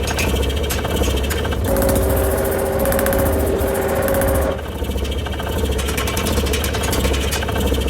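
Mechanical power hammer running over a steady motor hum, knocking at a rapid, even rate as it draws down the bar. For about three seconds midway the blows fade and a steady humming tone takes over.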